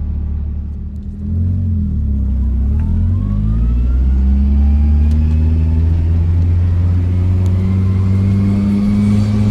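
A turbocharged Nissan SR20 four-cylinder in a 240SX pulls under throttle. The engine note dips briefly, then gets louder about a second in and climbs steadily in pitch as the revs build. A thin turbo whistle rises along with it.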